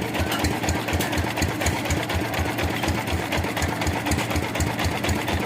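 Sawmill engine running steadily, with a regular low thudding of about eight beats a second.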